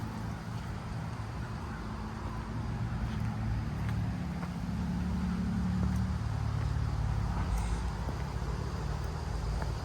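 Low engine rumble of a motor vehicle, swelling through the middle and easing off toward the end.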